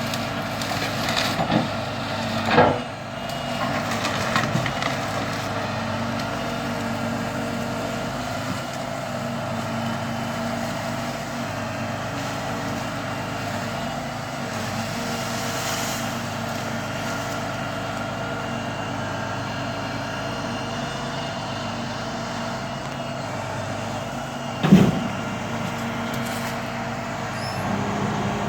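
Debris-loading truck's engine running steadily, with two loud thumps of debris being handled, one a few seconds in and a louder one near the end.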